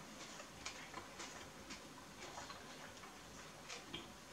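A person chewing a mouthful of vegetable sub sandwich with the mouth closed: faint, soft clicks about twice a second.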